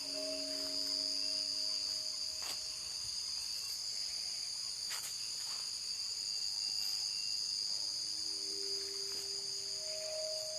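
Night insects chirping in a steady, high-pitched chorus, with a couple of faint clicks.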